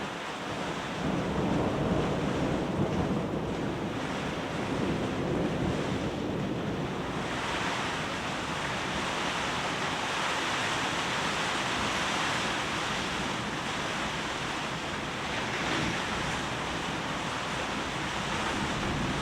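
Steady rush of heavy rain, wind and a flooding river, with a low rumble of thunder through the first several seconds that shakes the whole hut.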